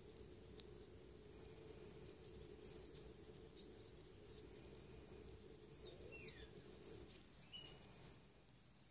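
Small birds giving faint, short, high chirps and calls, scattered and overlapping, over a low steady hum that stops about seven seconds in.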